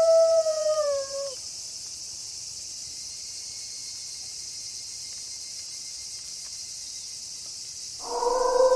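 Wolf howls: a long held howl slides down in pitch and dies away just over a second in, and after a pause filled only by a steady high hiss, another louder howl begins near the end.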